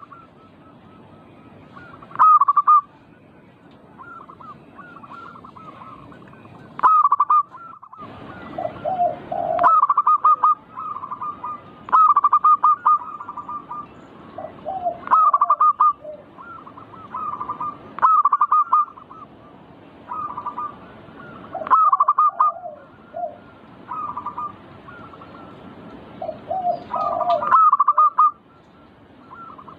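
Zebra dove cooing, short loud trilled phrases repeated every two to three seconds, with a few lower notes mixed in now and then.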